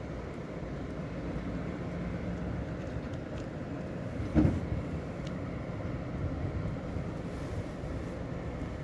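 Steady hum and rumble of DB class 423 electric S-Bahn trains at a platform, one standing and another pulling in. A single loud thump comes about four and a half seconds in.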